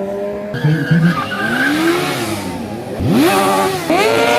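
Drift car's engine revving hard, its pitch swinging up and down, with tyre squeal; a sharp rev climbs about three seconds in and again near the end.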